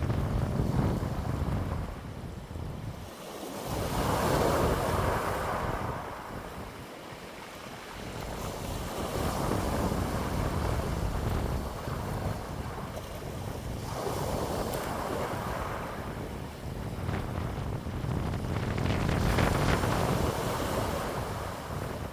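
Wind blowing in slow gusts that swell and die away every few seconds, with a low rumble of wind buffeting the microphone.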